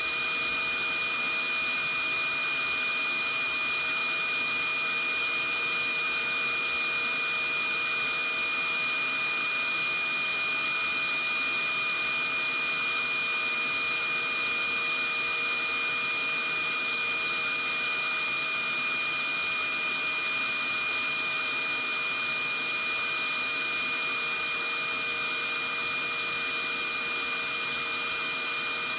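Vacuum cleaner running steadily, a constant hissing rush with a steady high whine and fainter lower hums in it.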